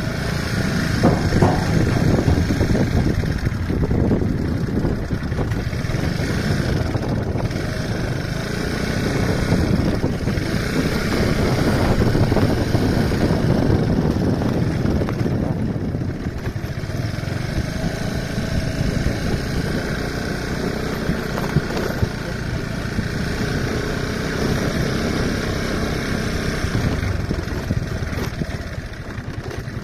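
A vehicle driving along a road: steady engine and road noise that swells and eases a little.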